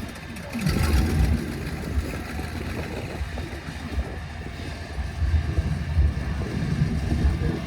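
Car engine running, a low rumble that swells about a second in and again over the last few seconds.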